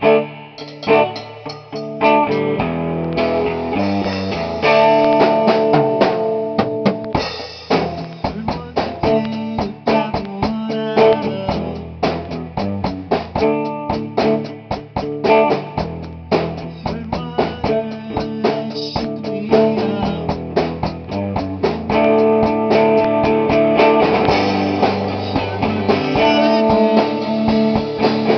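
Rock band playing live: electric guitar chords over a drum kit, with frequent sharp drum hits.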